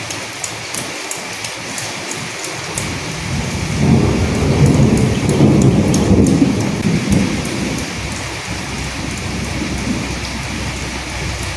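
Steady rain with fine drops ticking. A low roll of thunder builds about three seconds in, is loudest for a few seconds, then fades back under the rain.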